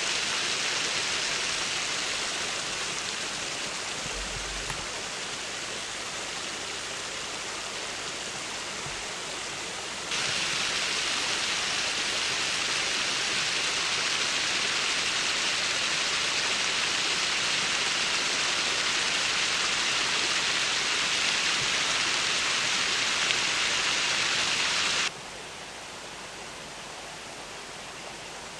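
River water rushing over concrete blocks: a steady hiss that jumps louder about ten seconds in and drops sharply near the end.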